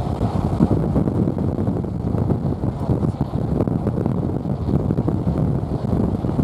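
Wind buffeting at a car window lowered about an inch, over the rumble of the car on the road. It is a steady, loud, low rushing noise with no break.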